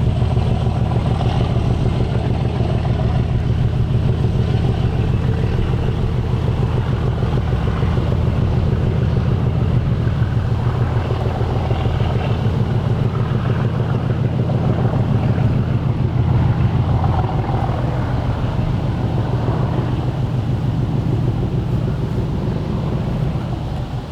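Passing train on the railway: a steady, loud low rumble that drops away a little near the end.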